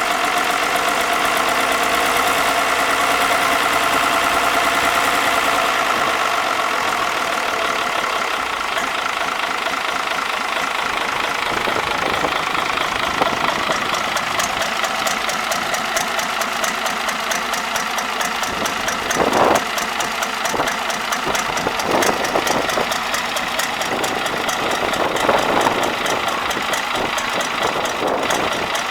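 Isuzu UM6BG1TCXD six-cylinder turbo diesel marine engine running on a test stand. It runs somewhat higher and louder for the first few seconds, then settles to an even idle with a few brief louder bursts later on.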